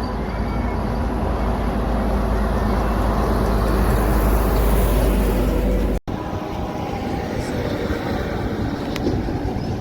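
A truck's engine and tyres passing close, growing louder to a peak about five seconds in. An abrupt cut about six seconds in leads to another passing truck's engine and road noise.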